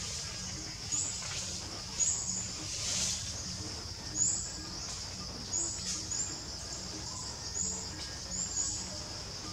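Birds chirping in forest, short high calls about once a second, over a steady high-pitched drone.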